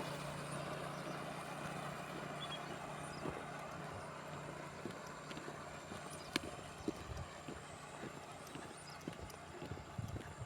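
A distant motorcycle engine running as a low steady hum that fades away over the first few seconds, followed by faint, irregular ticks and taps.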